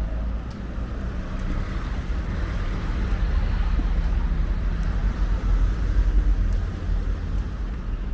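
Street traffic: a motor vehicle passing close by over a steady low rumble, growing louder in the middle and easing off near the end.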